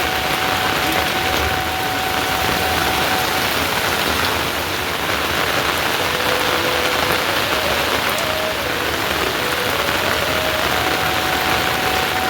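Steady rain falling, a dense even hiss that holds at one level throughout.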